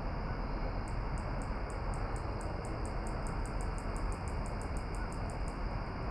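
A small animal's call: a run of about two dozen short, high-pitched chirps that speed up as they go, starting about a second in and stopping near the end. Under it is a steady outdoor background hiss and rumble.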